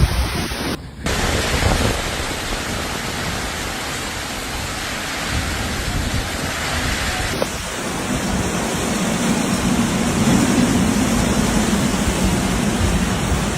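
Heavy rain and strong wind of a tropical cyclone, a loud, steady rush of noise. It drops out briefly about a second in, then changes abruptly about seven and a half seconds in to a lower, wind-like rumble.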